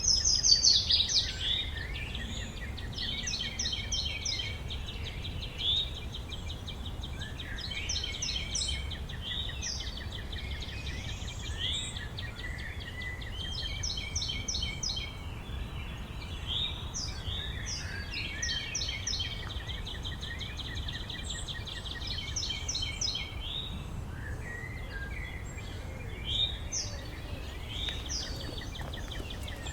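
Several songbirds singing, with short trilling and chirping phrases repeated every few seconds, over a steady low rumble.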